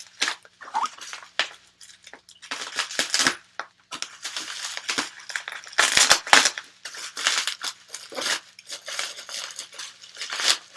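Plastic packaging and bubble wrap crinkling and rustling in irregular handfuls as a cup is unwrapped, with sharper crackles, loudest about six seconds in.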